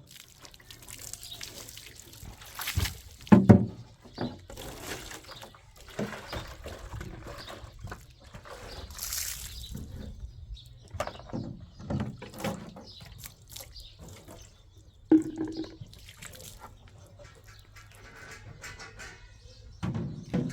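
Liquid being handled: pouring, splashing and dripping in an irregular run, with a sharp knock about three seconds in and another near the middle.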